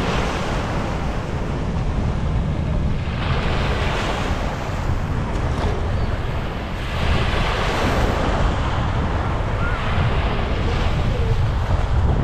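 Sea waves breaking and washing up the beach, the hiss of the surf swelling and fading about every three to four seconds over a steady low rumble. Wind buffets the microphone throughout.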